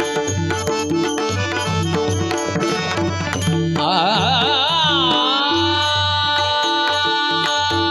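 Instrumental interlude of Marathi devotional abhang music: a fast hand-drum rhythm, then, about four seconds in, a long melodic note that wavers, glides down and settles into a steady hold.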